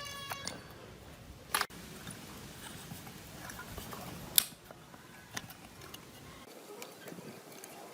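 Workshop handling sounds: scattered sharp clicks and light scraping from small tools and parts being handled, with the loudest click about four and a half seconds in.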